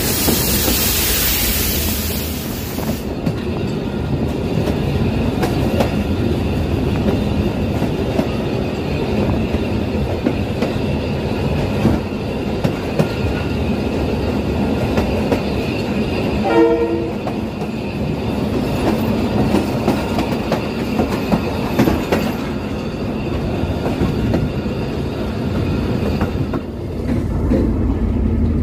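Train running on the tracks at close range: a continuous rumble with clicks of the wheels over rail joints, a loud hiss during the first few seconds, and a short horn toot a little past halfway.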